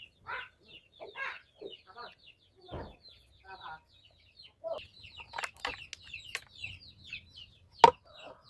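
Chickens clucking with constant high chirping, broken in the second half by several sharp knocks, the loudest near the end.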